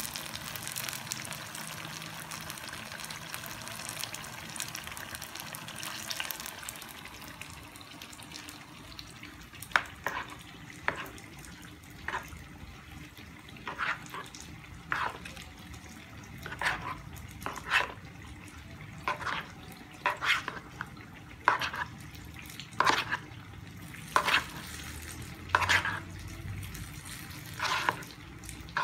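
Battered banana pieces sizzling in hot oil in a frying pan, a steady hiss. Then a metal spoon stirring sliced bananas through wet batter in a plastic bowl: short, irregular scraping strokes about once a second.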